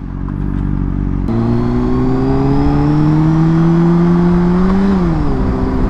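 Honda CBR RR sport bike's inline-four engine pulling under throttle, its pitch climbing steadily through a gear, then dropping near the end as it shifts up, with wind rush on the microphone.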